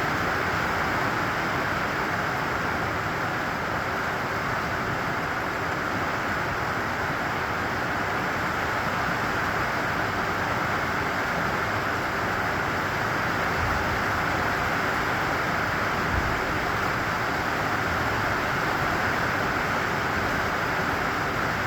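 Steady rain, an even hiss with a low rumble beneath, with two faint low thumps partway through.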